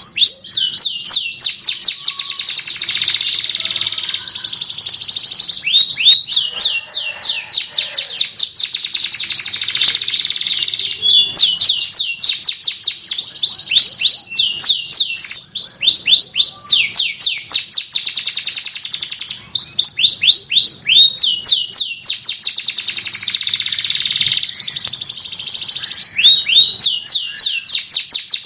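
Recorded songbird song of a canary and a cililin mixed together, a continuous run of fast rolling trills broken by quick series of sharply sweeping whistled notes.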